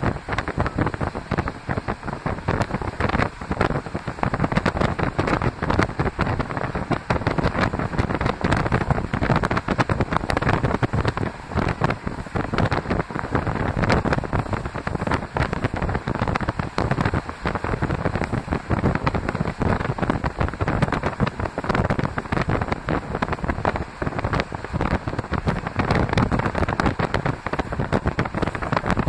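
A moving passenger train heard from the upper deck of a double-deck coach: the steady rush of its running noise, with wind buffeting the microphone in rapid gusts.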